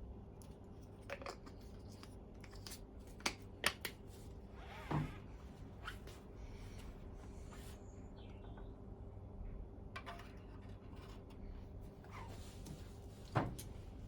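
Scattered light clicks, taps and a scrape of small metal parts being handled, with two sharper knocks about three seconds in and another near the end, over a low steady hum.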